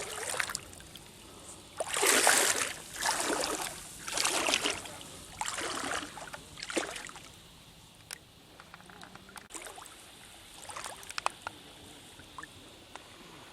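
Water splashing in five swishes about a second apart, then quieter small splashes and clicks.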